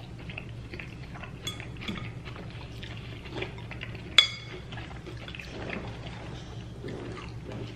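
Tableware handled while eating: scattered small clicks of a fork on a plate, with one sharp, ringing clink about four seconds in.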